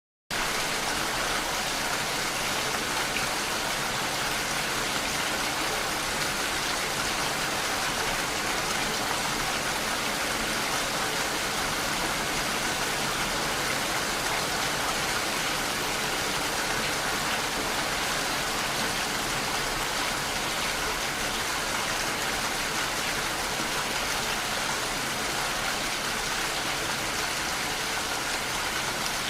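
Steady rain falling as an even hiss, cutting in suddenly from silence right at the start.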